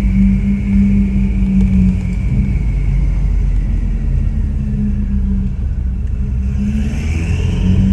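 Ferrari 488 Pista's twin-turbo V8 running through a custom Ryft exhaust, a steady drone that climbs in pitch near the end as the car accelerates.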